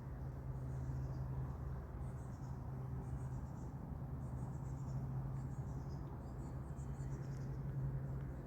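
A small bird singing short, high, thin chirping phrases about once a second, over a steady low hum.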